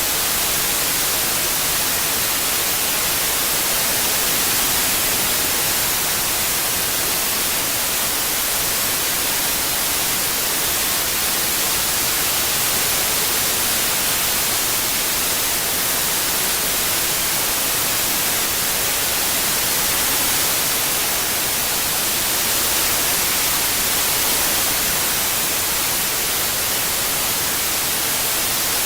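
Steady synthetic white noise: an even, unbroken hiss, brightest in the treble.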